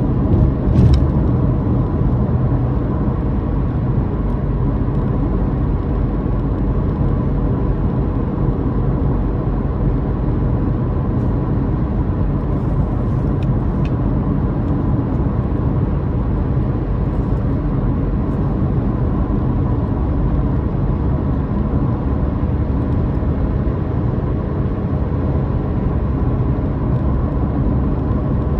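Car driving steadily along, its motor droning under a constant low rumble of road noise.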